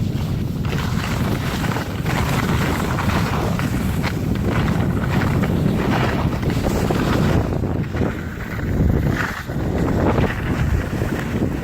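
Wind buffeting the microphone during a downhill run on snow: a loud, steady rushing rumble that swells and dips unevenly.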